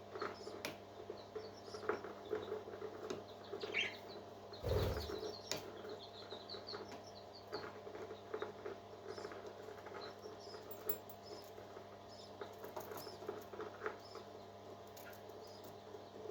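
Newly hatched parrot chicks giving faint high chirps, with many small scratching and rustling clicks over a steady low hum. One louder knock comes about five seconds in.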